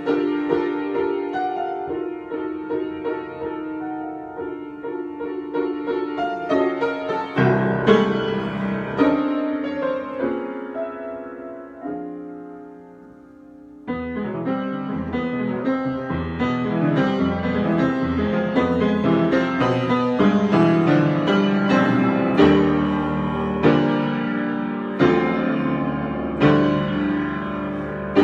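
Solo piano improvisation: chords and melody notes that thin out and fade almost away about halfway through, then come back fuller with deeper bass notes.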